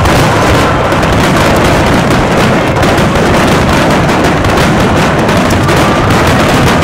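A dense, continuous barrage of aerial firework shells bursting and crackling in quick overlapping succession, loud and without pause, as in a fireworks finale.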